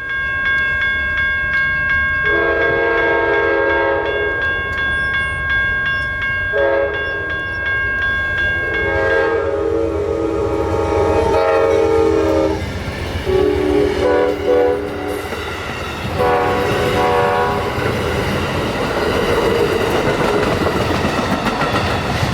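CSX freight locomotive horn sounding the grade-crossing signal, two long blasts, a short one and a final long one, over a steady high ringing tone. After the last blast the train's wheels rumble and clatter past on the rails.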